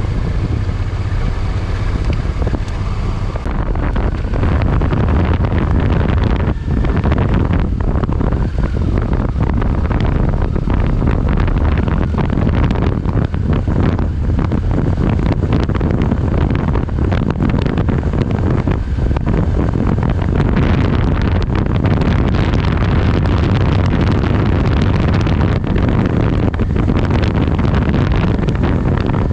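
Wind buffeting the microphone over a steady low engine rumble, growing a little louder about three and a half seconds in.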